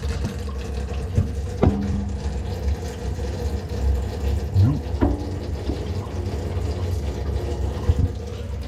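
Water running from a kitchen faucet into the sink while the sink plumbing is checked for leaks. A couple of sharp knocks come through, about a second and a half in and again about five seconds in.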